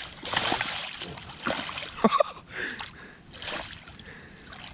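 Water splashing in several irregular bursts as a hooked pike thrashes at the surface while it is being landed, with a sharp knock-like peak about two seconds in.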